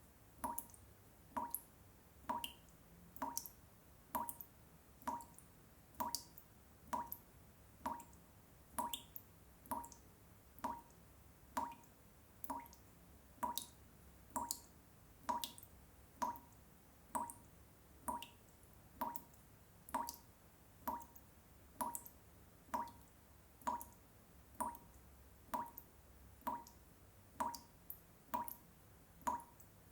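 Water drops falling one at a time in a steady, even rhythm, about one drop a second, each a short plinking drip, played as a repetitive sleep sound for babies.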